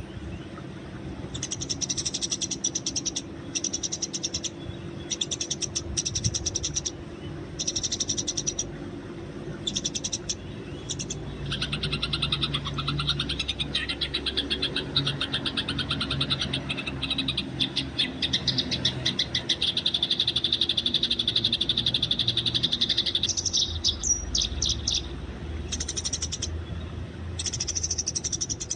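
Eurasian tree sparrows chirping in rapid, high trains of notes, first in short bursts and then in a long unbroken stretch of fast chattering through the middle. A faint steady low hum lies underneath.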